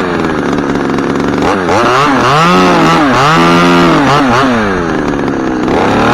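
Chainsaw engine revving up and down in bursts, dropping back toward idle about five seconds in, then revving up again and holding near the end.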